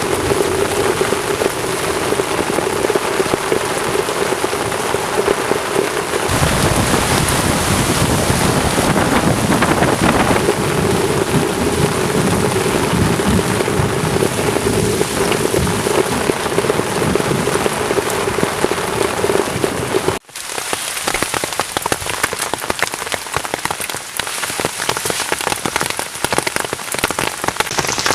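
Heavy rain pounding on a camping shelter, steady and loud. A deep rumble joins about six seconds in; after a sudden break about twenty seconds in, the rain sounds sharper, with less low end.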